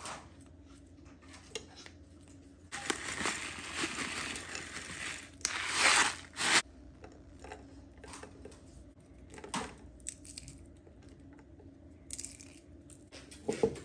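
Rustling and crinkling handling noise, with a longer stretch about three seconds in, a louder burst around six seconds in, and scattered light clicks.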